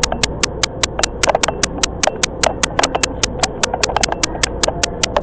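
Fast, even ticking, about five sharp clicks a second, over a steady low hum aboard the train.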